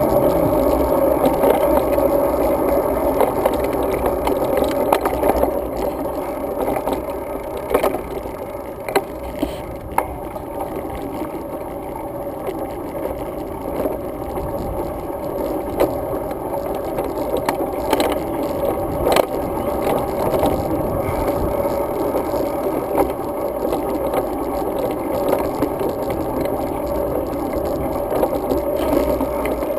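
Road bike rolling along pavement: a steady, muffled rumble of tyres and wind, with scattered sharp rattling clicks as the bike goes over bumps.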